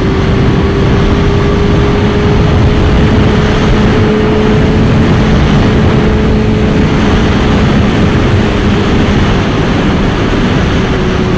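Suzuki GSX-R600 sportbike's inline-four engine running at a steady cruise, its pitch rising slightly and easing back down, under heavy wind rush on the microphone while riding.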